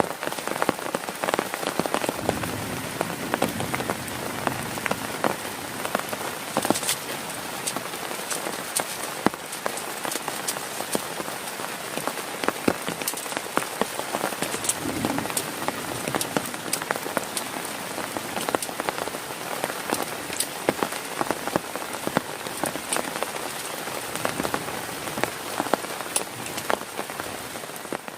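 Heavy rain falling on a tent: a steady, dense patter with many sharp individual drop hits throughout.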